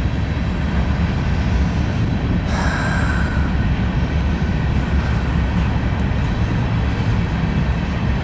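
Norfolk Southern mixed-freight manifest train rolling past with a steady low rumble of wheels on rail. A higher whine comes in about two and a half seconds in and fades away.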